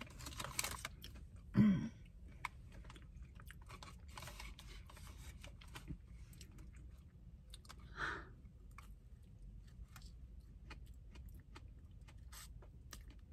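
A person chewing a mouthful of donut close to the microphone, with many small wet mouth and lip clicks and a short hum about two seconds in.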